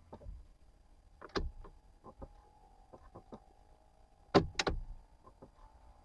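Sharp plastic clicks from a hazard-light switch being pressed and handled: one click about a second and a half in, then two loud clicks in quick succession past the middle, with fainter ticks between. No relay ticking follows, because the swapped-in switch is not working the indicators.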